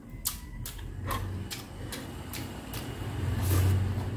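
Close-miked chewing: a run of short wet mouth clicks and smacks, two or three a second, over a low rumble that swells near the end.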